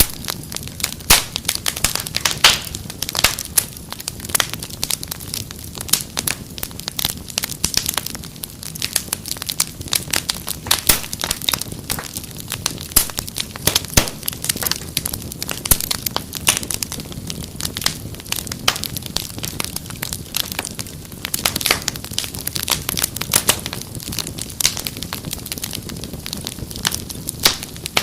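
Wood fire crackling in a fireplace: a steady stream of irregular sharp pops and snaps over a low rushing hiss of flames.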